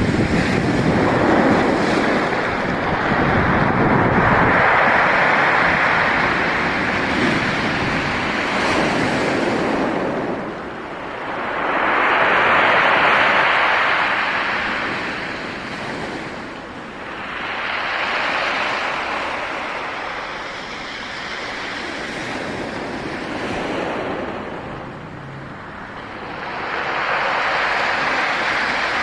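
Black Sea waves breaking and washing ashore, the surf swelling and falling back every few seconds, with wind buffeting the microphone.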